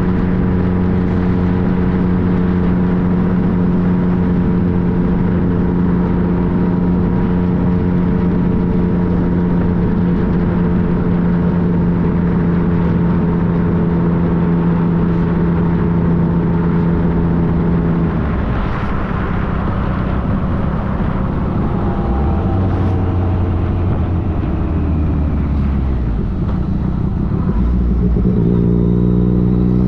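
Yamaha FJ-09's three-cylinder engine running at a steady cruising note under a rush of wind. About 18 seconds in the throttle rolls off and the note falls away, running lower for several seconds. Near the end the note rises again as it accelerates.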